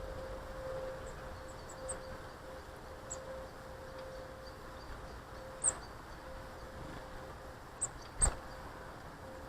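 Small garden birds at a feeder giving brief, high chirps scattered through, with two sharp knocks, about two-thirds in and near the end, the second the loudest, over a faint steady hum.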